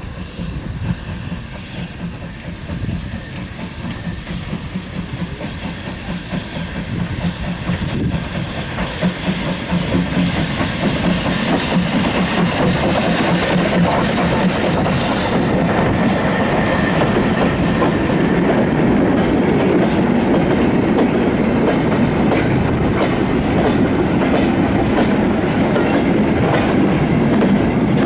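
NER Class P3 (J27) 0-6-0 steam locomotive hauling a goods train, growing louder as it approaches, with a hiss that stops sharply about halfway through. After that comes a steady clatter of freight wagons rolling over the rail joints.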